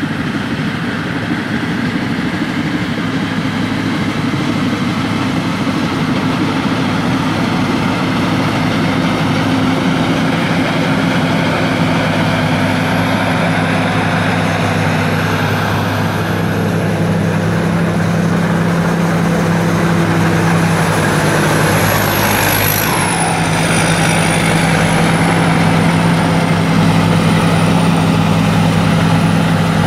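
Rice combine harvester's engine running steadily, with a faint high whine that wavers in pitch from about halfway through.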